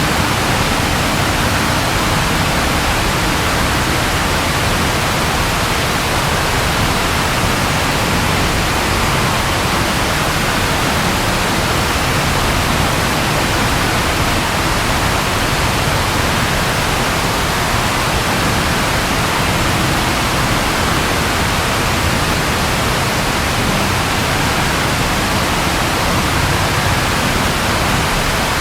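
Steady, even rainfall, an unbroken hiss of rain with no thunder in this stretch.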